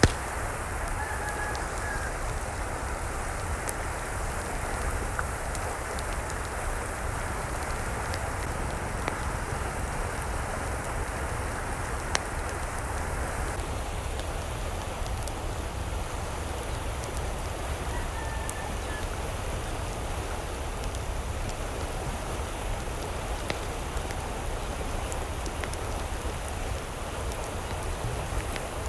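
Steady rain falling, with scattered drop ticks. A chicken calls faintly twice, about a second in and again around eighteen seconds in.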